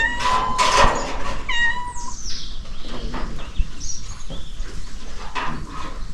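Two high-pitched animal calls, each held on one pitch, the second following about half a second after the first ends, over a steady background noise with scattered faint knocks.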